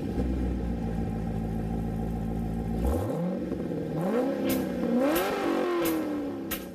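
A GMC Sierra 1500's 5.3-litre V8 idling steadily, then revved three times, each rev climbing higher than the last and then falling back. A few sharp clicks sound during the revs.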